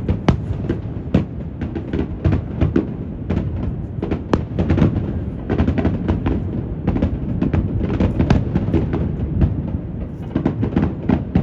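Fireworks bursting in quick succession: many sharp bangs and crackles, several a second, over a steady low rumble of wind on the phone's microphone.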